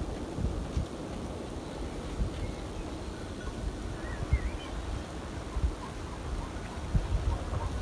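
Wind buffeting the microphone outdoors, with a few faint bird chirps about halfway through.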